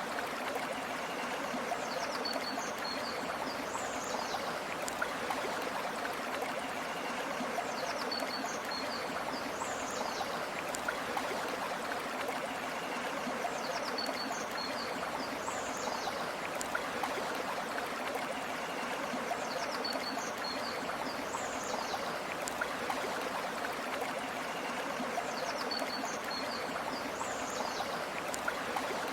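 Flowing stream, a steady rush of water. Short high bird chirps recur in the same pattern about every six seconds.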